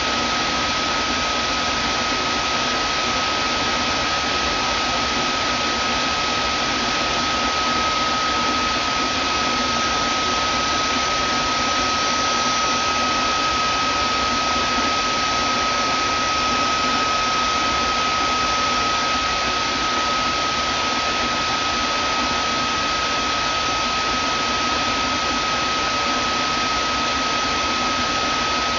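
Vacuum cleaner motor running steadily: an even rushing whir with a clear high whine held on one pitch.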